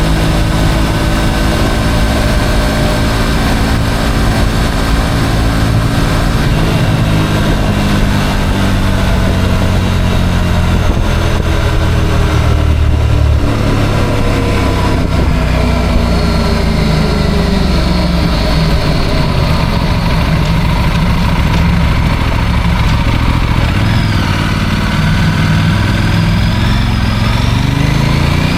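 Motorcycle engine heard from the bike while riding in traffic: the engine note falls as it slows down over the first half, runs low for a while, then rises again as it picks up speed near the end.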